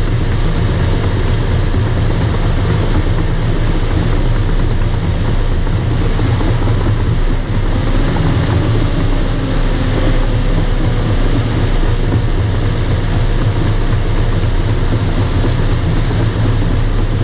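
Bulldozer's diesel engine running loud and steady, with a faint whine that rises and falls about eight to ten seconds in.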